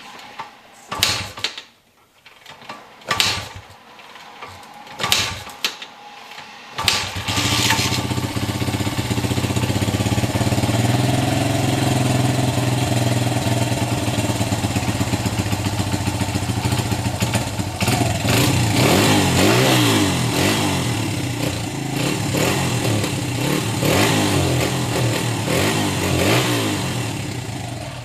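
1996 Honda XR100's small four-stroke single being kicked over a few times, about two seconds apart, and catching about seven seconds in. It then runs steadily and is revved up and down repeatedly in the second half.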